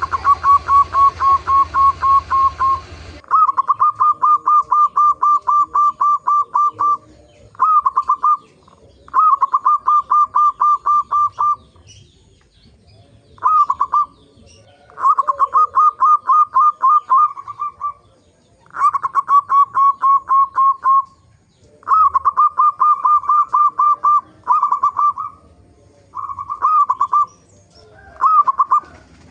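Zebra dove (perkutut) singing: runs of rapid, evenly repeated cooing notes, each run lasting one to four seconds with short pauses between. A hiss of background noise lies under the first three seconds and then drops away.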